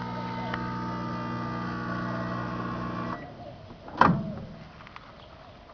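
Microwave oven running to destruction, its transformer giving a steady electrical buzz with a couple of faint clicks. The buzz cuts off suddenly about three seconds in. About a second later comes a loud, short sound that sweeps quickly down in pitch.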